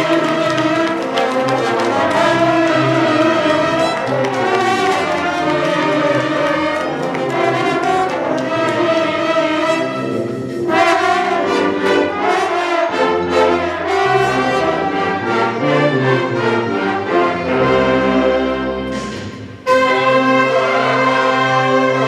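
Wind band playing, brass to the fore with sustained chords and moving lines; about 19 seconds in it fades briefly, then the full ensemble comes back in suddenly and loud.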